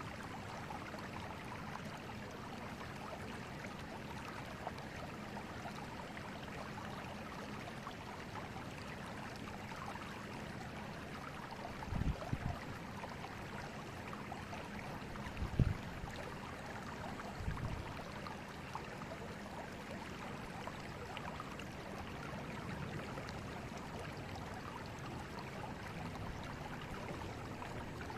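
River water flowing steadily with an even rushing sound. Three brief low thumps come about 12, 15 and 17 seconds in, the middle one the loudest.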